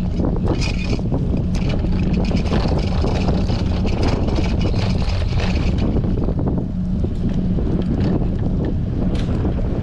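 Strong wind buffeting the microphone of a camera on a moving bicycle: a steady low rumble with scattered clicks, plus a brighter hiss from about half a second to six seconds in.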